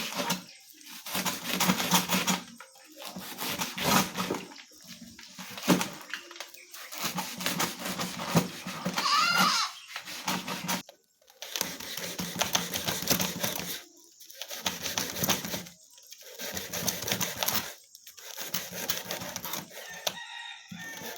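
Goosegrass being cut into small pieces by hand: bursts of rapid cutting strokes, each a second or two long, with short pauses between. A short bird call with a rising and falling pitch sounds about nine seconds in.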